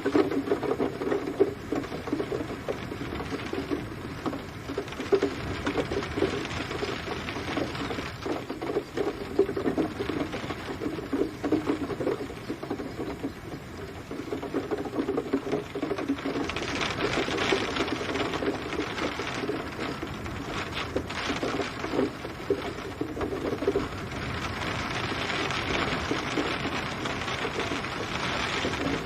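Steady rain: a dense, fast patter of drops striking a surface, with a brighter hiss of rain swelling in about halfway through.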